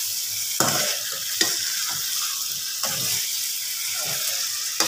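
Beef pieces in onion-tomato masala sizzling in oil in a metal pot while a metal spoon stirs and scrapes through them, with a few sharp clinks of the spoon against the pot. The meat is being browned until the oil separates.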